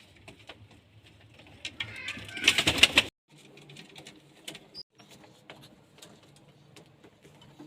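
Pigeons in a loft, with soft low cooing and scattered small clicks and scuffles. A loud burst of scuffling noise comes about two and a half seconds in and cuts off suddenly.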